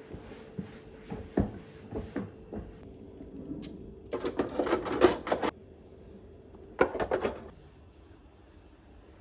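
Household handling sounds: light knocks and clicks of objects being moved, with two louder bursts of clatter, the first about four seconds in lasting over a second, the second shorter about seven seconds in.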